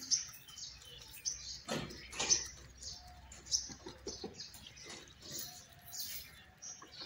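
Birds chirping, short high calls repeated over and over, with a couple of brief soft knocks about two seconds in.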